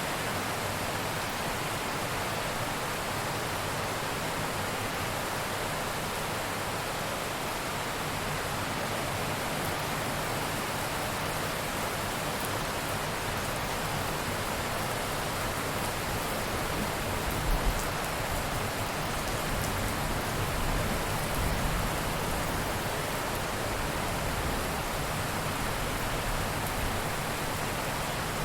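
Steady heavy rain falling as an even hiss, with a low rumble of thunder swelling for a few seconds about two-thirds of the way through.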